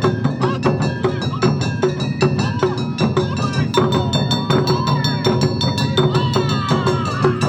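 Awa Odori festival band playing: a fast, steady beat of struck percussion with a ringing metallic gong part, under high gliding melodic lines.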